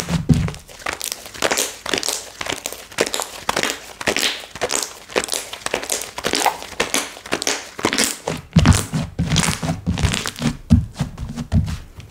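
Hands working slime, giving a steady stream of crackly clicks and squishes. Dull thuds join in about two-thirds of the way through as the slime is pressed or slapped down.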